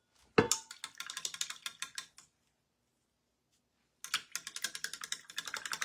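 Two runs of rapid clicking, each about two seconds long, with a pause of nearly two seconds between them.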